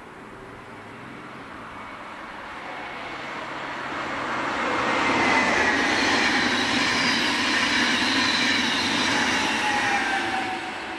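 Double-deck electric passenger train approaching and passing, its wheels running on the rails with a high whine over the rail noise. It builds over about five seconds, stays loud while the coaches go by, and fades near the end.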